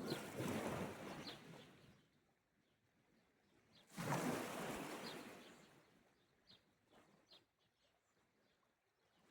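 Sea waves washing onto the shore, twice: one surge fading out over the first two seconds, and a second that comes in suddenly about four seconds in and dies away over the next two. Faint short bird chirps sound between the waves.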